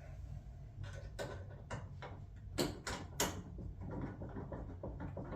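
Light clicks and knocks of screws and the dryer's sheet-metal front panel being handled as screws are started by hand, with several sharp knocks in the middle and a run of faint quick ticks near the end, over a steady low hum.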